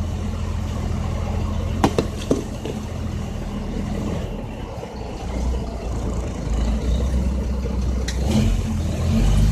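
Caterpillar C10 diesel engine of a loaded dump truck running, heard from inside the cab, with a couple of sharp clunks about two seconds in. The engine sound dips about halfway through, then picks up and pulls again.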